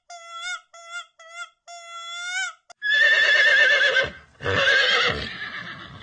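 A horse whinnying loudly from about three seconds in, a shaky, quavering call that comes again more briefly about a second and a half later. It is preceded by a run of short, clear, high-pitched notes.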